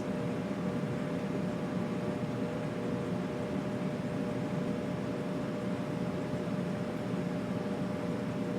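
Home HVAC system running: a steady rumble of air and fan with a faint constant hum on top, unchanging throughout.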